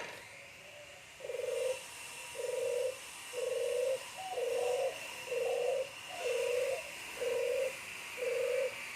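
Puter geni, a red-toned ringneck dove, cooing in an even series of short coos, about one a second, eight in all, while being paired with a mate.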